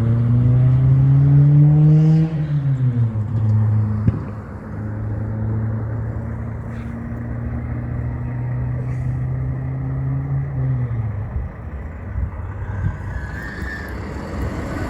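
Heavy truck's diesel engine accelerating. Its note rises, drops sharply about two seconds in as it shifts up, then pulls steadily under load before falling away and fading near the end.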